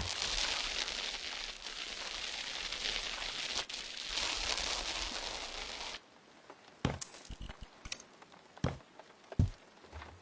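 A steady rushing hiss over a low hum, which cuts off suddenly about six seconds in. Several separate knocks follow.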